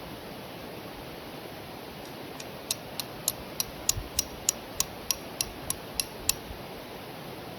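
Steady rain falling, with a run of about a dozen sharp, evenly spaced ticks, about three a second, starting a little under three seconds in and stopping near the end.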